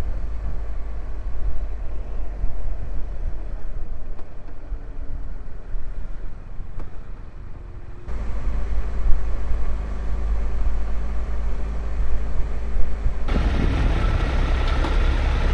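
Motorcycle engine running with a steady low rumble of wind on the microphone while riding. The sound changes abruptly about halfway through and again near the end, becoming louder and more hissy.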